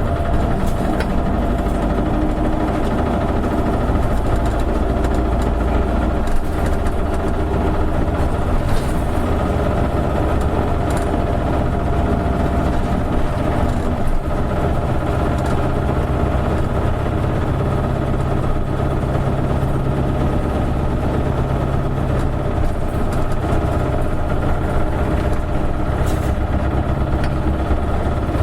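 Diesel engine of an Isuzu KL-LV280N1 city bus running steadily, heard from inside the bus. Its pitch stays level throughout, and the deepest rumble changes about seven seconds in.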